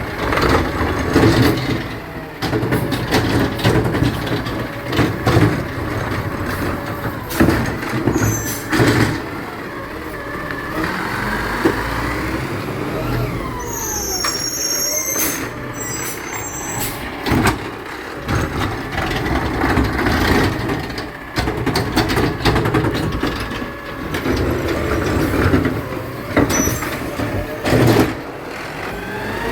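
Garbage truck working: its engine running steadily under repeated clanks and bangs, with brief pitch glides.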